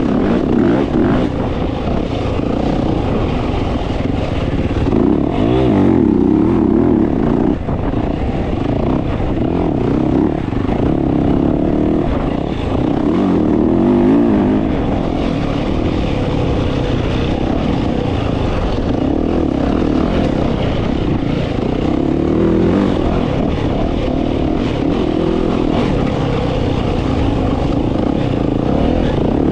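Dirt bike engine under way, revving up and falling back every few seconds as the throttle is worked.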